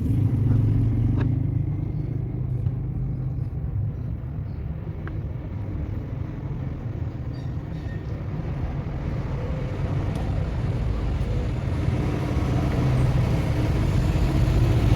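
Steady low rumble of a motor vehicle engine running in street traffic, with a few faint clicks.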